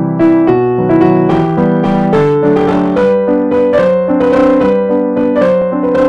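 Background piano music: a steady instrumental piece of struck notes over held chords.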